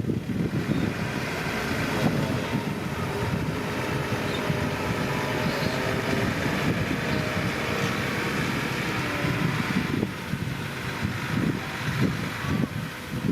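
Heavy diesel earthmoving machinery running steadily under load, a Komatsu bulldozer or dump truck pushing soil, with a faint higher whine over the engine.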